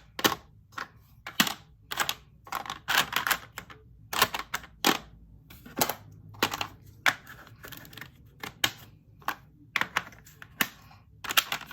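Irregular plastic clicking and clacking of small bead storage containers and cases being handled, opened and shut, singly and in quick little clusters.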